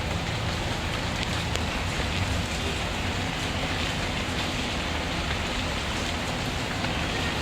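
Steady rainfall, an even hiss of rain with a few faint scattered ticks of drops.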